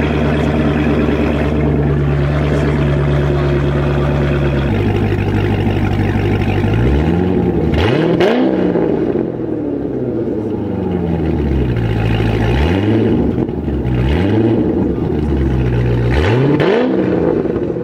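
Car engine idling steadily, then revved several times in short blips from about seven seconds in, the pitch sweeping up and back down with each blip.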